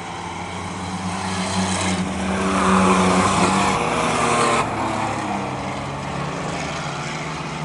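Racing trucks' engines running at speed on an oval track. The pack comes up louder to a peak about three seconds in, then drops away sharply after about four and a half seconds as it moves off.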